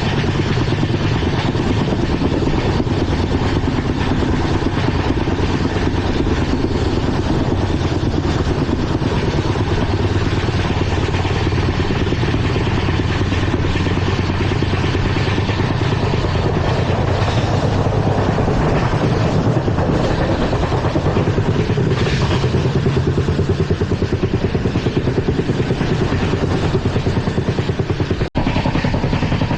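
Steady running noise of an LHB passenger coach at speed: wheels on rail and the bogie rumbling without let-up. It drops out for a moment a little before the end.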